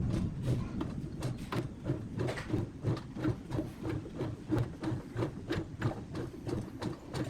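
A machine knocking in an even rhythm, about four knocks a second.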